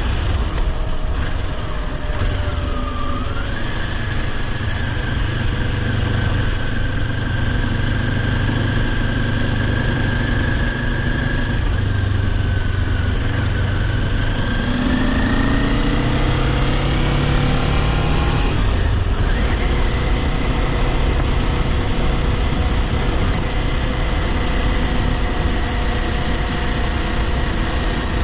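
Kawasaki Ninja 400's parallel-twin engine running under way, with steady wind and road rush. The engine note dips briefly about three seconds in and climbs steadily through the middle. About two-thirds of the way through it breaks off for a moment, then settles at a higher, steady pitch.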